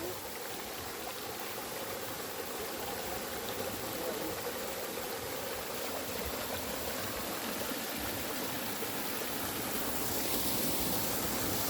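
Flowing water rushing in a stream and small waterfall: a steady rushing that grows slowly louder toward the end.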